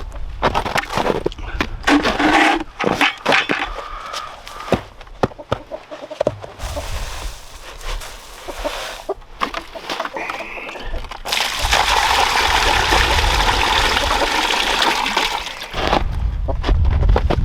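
Several seconds of knocks and clatter, then water pouring steadily for about five seconds before it stops.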